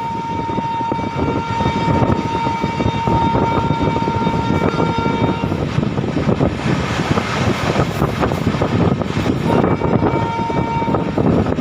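Express train running at speed, with the steady rumble and rattle of the wheels on the track, while the WAP-7 electric locomotive's horn sounds one long steady note through the first half and again briefly near the end.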